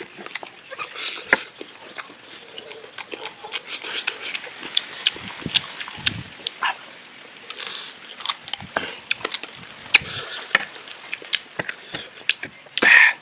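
Close-miked eating of boiled chicken: irregular wet chewing, lip-smacking and small clicks, with a louder burst near the end.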